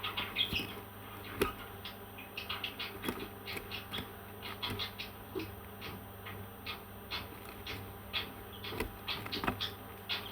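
Pet parrot making a run of irregular soft clicks and taps, with a few short chirps mixed in.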